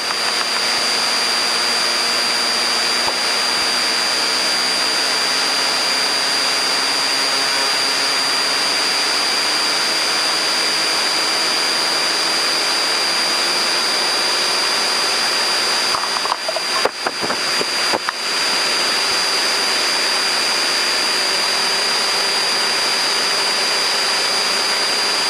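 Cessna 172M's four-cylinder Lycoming engine and propeller running at low power, heard inside the cabin, with a steady high-pitched whine over it and its pitch creeping slowly up. Brief crackles and dropouts break in about two-thirds of the way through.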